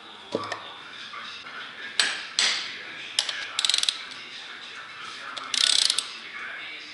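Ratchet wrench clicking in short rapid runs, with a few single metallic knocks, as the main bearing cap bolts are tightened down onto a Plastigauge strip to measure the bearing clearance.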